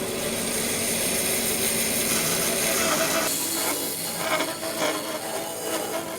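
Wood being worked by hand tools for lure carving: a steady grinding sound for about three seconds, then irregular scraping or rasping strokes.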